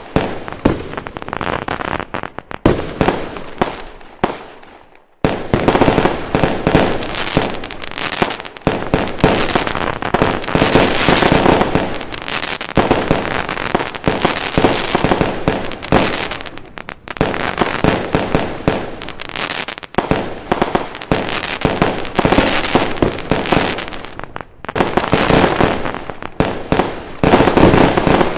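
Fireworks going off in a dense, rapid barrage of bangs and crackles, with a short lull about four seconds in.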